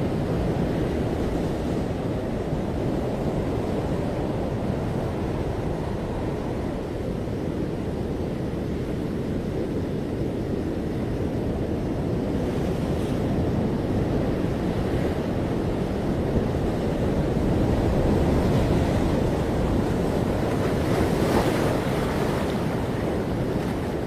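Ocean waves breaking and washing onto a beach in a steady rumbling surf, with one wave breaking a little louder and brighter near the end. Some wind buffets the microphone.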